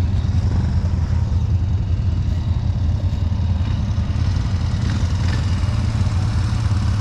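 ATV engine idling steadily, a constant low rumble.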